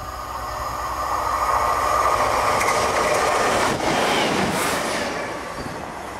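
A diesel multiple unit running through a station at speed. Its engine and wheel noise on the rails swells to a peak about two seconds in, with a few sharp clacks around the middle, then fades as it passes.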